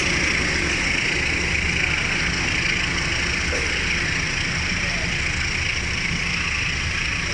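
Local passenger train pulling away along the track, its low rumble slowly fading under a steady hiss.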